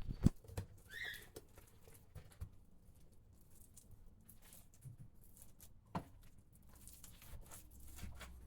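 Spoon scraping and knocking in a pot as a dense, sticky mash of cooked vegetables, legumes and cereals is dug through and turned over, with scattered clicks and a few sharper knocks. There is a short squeak about a second in.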